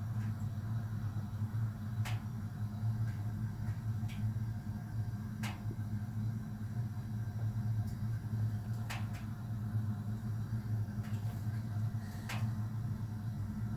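Steady low hum with a few faint, sharp clicks spread a few seconds apart.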